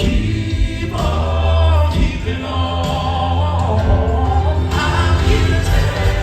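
Southern gospel male vocal quartet singing in harmony over accompaniment with a strong bass, performed live.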